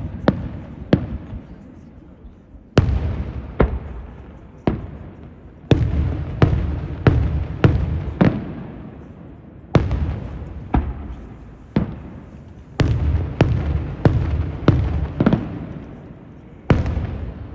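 Fireworks display: aerial shells bursting one after another, each sharp bang followed by a low rolling echo. The bangs come singly and in quick runs of four or five, about two a second.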